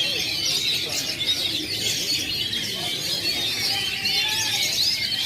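Many caged songbirds singing at once in a songbird singing contest, a dense, continuous chorus of overlapping chirps and trills.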